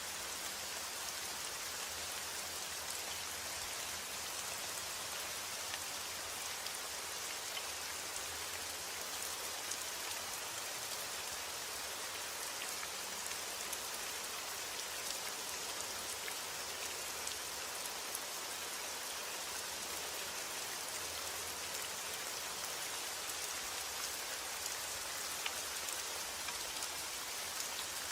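Steady rain falling, with an even hiss and scattered drops pattering on a surface.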